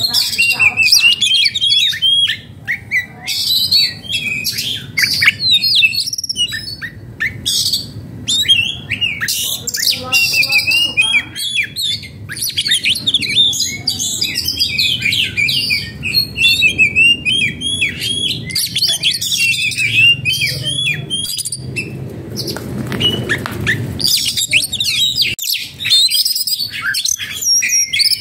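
Oriental magpie-robin (kacer) singing a loud, fast, varied stream of chirps and whistles. The uploader presents the song as that of a bird in breeding condition and agitated. The song thins briefly about three-quarters of the way through, then comes back dense.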